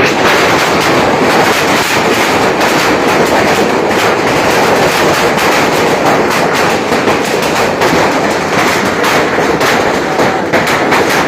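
Heavy hailstorm with rain: a loud, steady clatter of countless small hailstones and raindrops pelting down, the sharp clicks growing denser in the second half.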